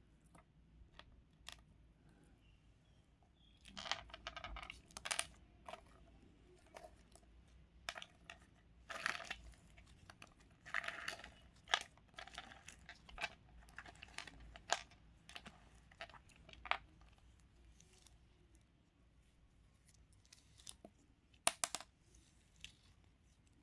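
Close-up handling sounds of crunchy craft material: irregular crinkles, crunches and light clicks, busiest in the middle stretch, with a sharp pair of clicks near the end.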